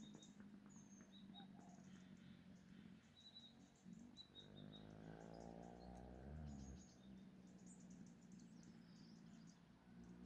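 Faint scattered bird chirps over a low steady hum, with a low droning sound that swells and fades about halfway through.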